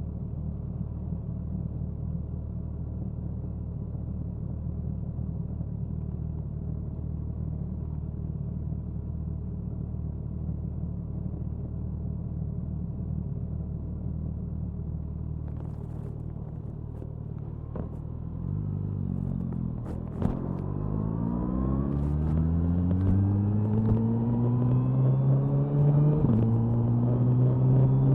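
Suzuki Hayabusa's inline-four exhaust, recorded close to the tail: it runs with a steady low rumble, then about two-thirds of the way through the engine is opened up and the note climbs and grows louder under hard acceleration, with a couple of short breaks in the climb.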